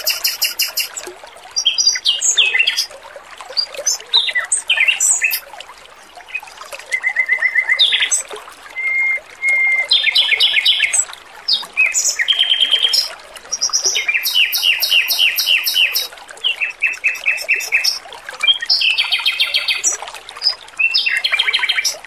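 Male Pekin robin (red-billed leiothrix) singing: rapid trills and runs of quick repeated high notes in phrases a second or two long, with short pauses between, over a faint steady trickle of water.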